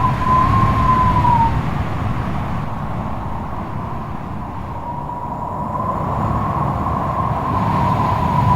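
Strong, gusting wind howling: a low rushing rumble with a high, wavering whistle that dies away about a second and a half in and returns about five seconds in.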